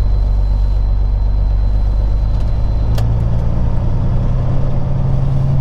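Peterbilt 379 semi truck's diesel engine running at low speed, heard from inside the cab. About three seconds in, a click sounds and the engine note steps up slightly.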